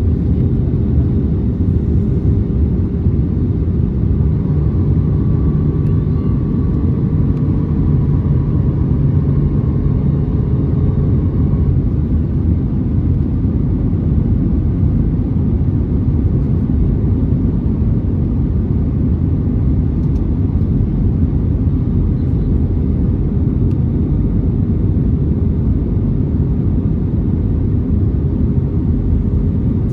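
Steady engine and airflow noise of an Airbus A320neo heard inside the passenger cabin during descent on approach, with a constant low hum throughout. A faint extra pitched hum comes in at about four seconds and fades out at about twelve seconds.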